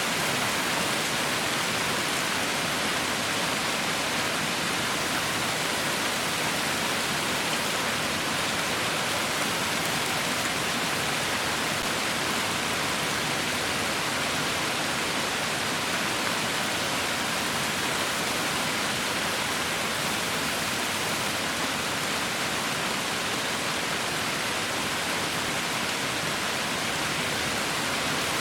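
Heavy rain falling steadily, a constant even hiss with no distinct drops or thunder.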